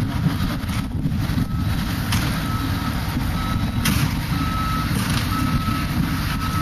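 A vehicle's reversing alarm beeping, about once a second, over a steady low rumble.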